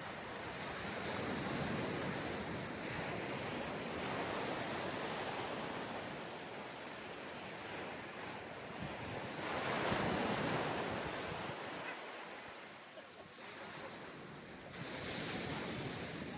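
Waves breaking on a sandy beach, the surf swelling and falling back in slow surges, the biggest wash about ten seconds in, with wind on the microphone.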